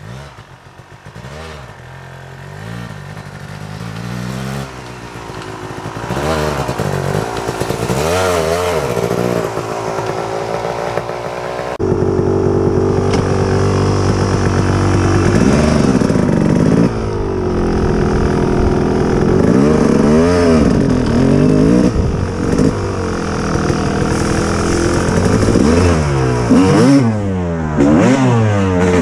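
Kawasaki KX250 two-stroke dirt bike engine revving up and down over and over, faint at first and growing louder, with a sudden jump in loudness about twelve seconds in.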